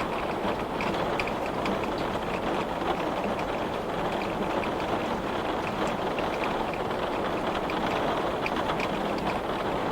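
Heavy rain beating on glass: a steady dense hiss of rainfall with many small sharp drop ticks on the pane.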